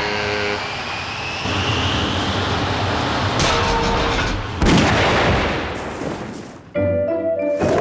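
Cartoon slapstick sound effects: a long crashing noise with a rising whistle in it, a loud bang about five seconds in that dies away, then brass-led cartoon music comes back near the end.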